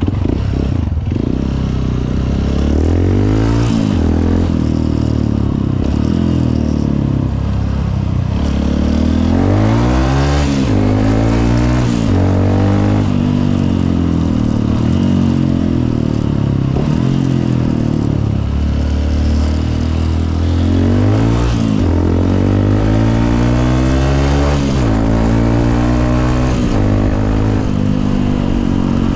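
Honda CRF150L's single-cylinder four-stroke engine running under way, revving up and dropping in pitch again and again as the rider accelerates and shifts gears.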